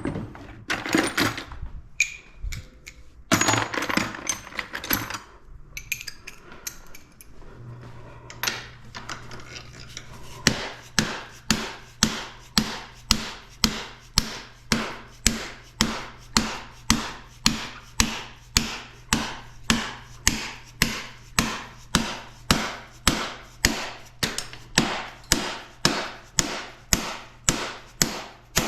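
A hammer repeatedly striking a part to drive it out of a 1990 Kawasaki KX250 during teardown. A few seconds of irregular tool clatter and scraping come first. About ten seconds in, steady blows begin, roughly one and a half to two a second.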